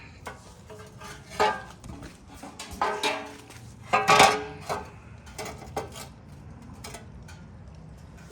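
An A-arm guard being handled and fitted onto the UTV's suspension arm: several clattering knocks with a short ring, the loudest about four seconds in, then a few lighter ticks.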